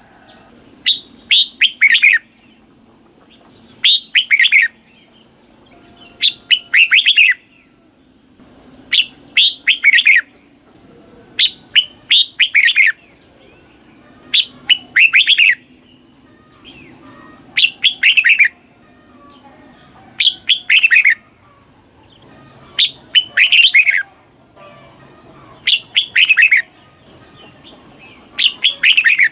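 Red-whiskered bulbul singing: short loud phrases of quick, clear, downward-sweeping notes, repeated about every two and a half to three seconds.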